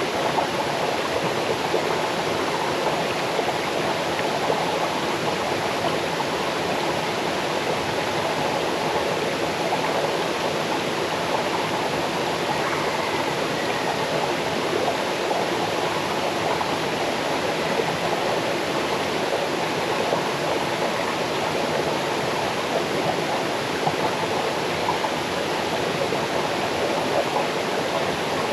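Waterfall stream cascading over rocks, a steady, unbroken rush of water.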